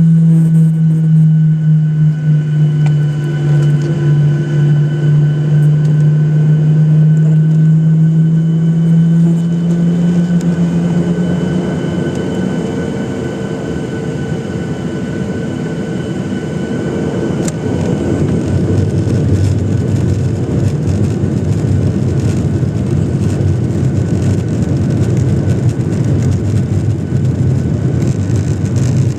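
Boeing 737-800's CFM56 jet engines heard from inside the cabin on the ground: a strong low hum that drifts slightly down and fades about ten seconds in, giving way to a broader, noisier sound of engines and airframe that grows louder from about eighteen seconds.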